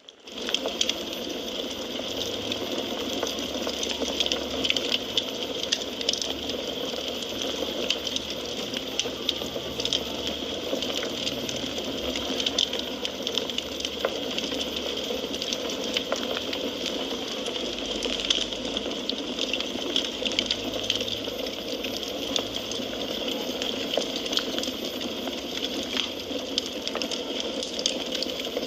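Wood fire crackling in a fireplace: a steady hiss of burning with frequent small sharp pops and snaps throughout. There is a brief drop in level right at the start.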